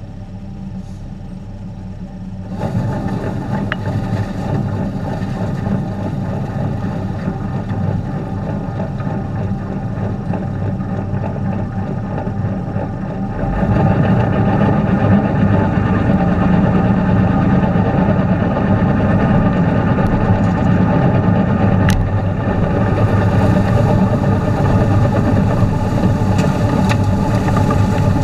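Tractor engine running steadily with a three-point snowblower attached, stepping up louder twice: about two and a half seconds in and again about halfway through.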